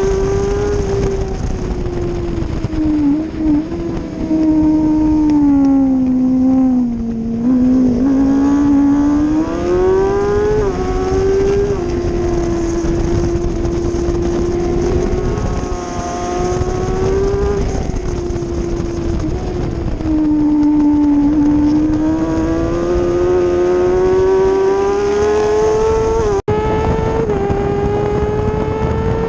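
Kawasaki ZX-6R 636 inline-four engine revving hard on track, heard on board over steady wind rush. Its pitch falls and climbs again several times as the bike slows for corners and drives out of them, with one long steady climb near the end. The sound cuts out for an instant shortly before the end.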